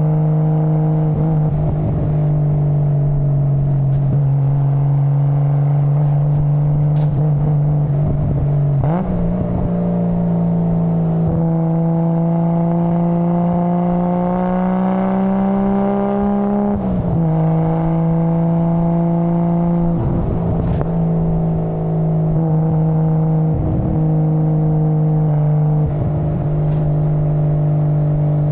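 Nissan Skyline GT-R R33's RB26DETT twin-turbo straight-six engine and exhaust running at a steady pitch, which climbs slowly about halfway in and drops back a few seconds later. A few brief thumps break in along the way.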